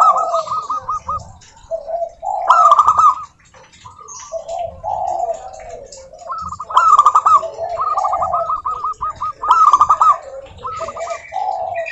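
Several zebra doves cooing at once, their songs overlapping: fast runs of short staccato notes over lower cooing phrases, with the loudest bursts coming a few seconds apart.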